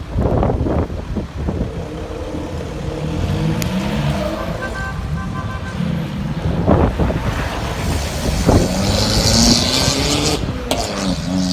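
Performance car engines revving and accelerating, the engine note rising and falling several times, with several sharp cracks from the exhausts.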